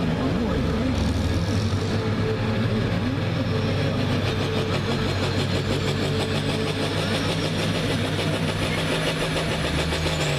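Diesel engine of a hot farm class pulling tractor running hard, loud and at a steady pitch.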